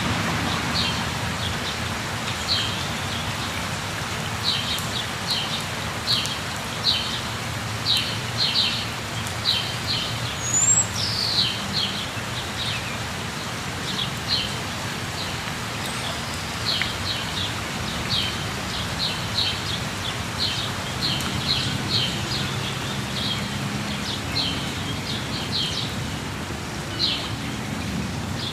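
Steady rush of falling water with birds chirping over it: short high chirps repeating a few at a time throughout, and one high gliding whistle about ten seconds in.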